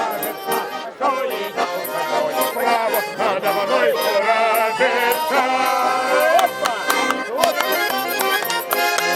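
Garmon (Russian button accordion) playing a lively folk tune, with a voice singing over it in the middle.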